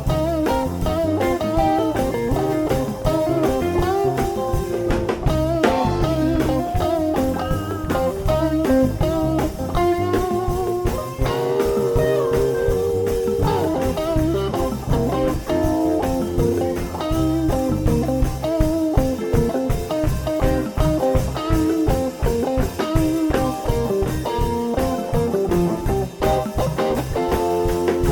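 Rock band playing live with no singing: electric guitars over bass guitar and a drum kit keeping a steady beat.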